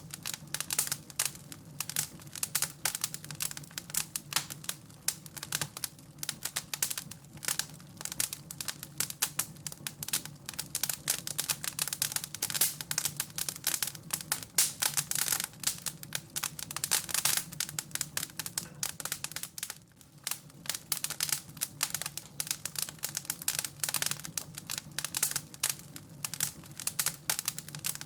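Wood fire crackling: a dense, irregular run of pops and snaps over a low, steady rumble.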